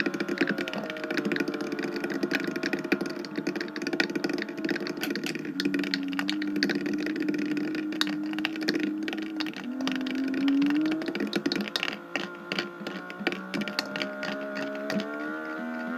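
Washing machine running with a pumpkin inside: rapid clattering and knocks over a motor whine that rises in pitch a couple of times.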